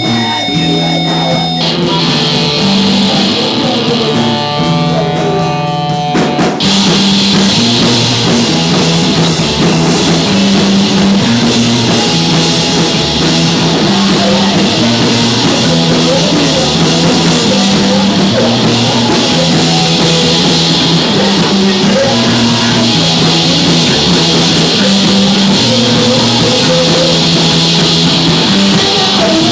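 Live rock band playing loud: an electric guitar alone at first, then drums, cymbals and the rest of the band come in together about six seconds in and carry on at a steady driving pace.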